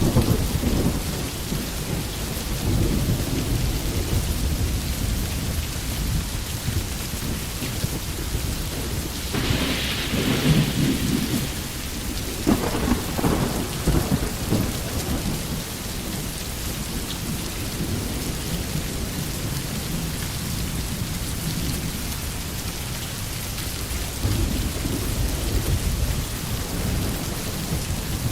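Steady rain falling on a tin roof with thunder. Low rumbles come and go throughout, a louder clap about ten seconds in rolls on for several seconds, and another roll of thunder comes near the end.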